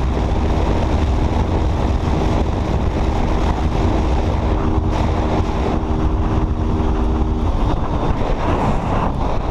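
Single-cylinder four-stroke motorcycle engine held at steady revs during a top-speed run, under heavy wind rush on the microphone. The engine's steady note drops out about seven and a half seconds in, leaving mostly wind.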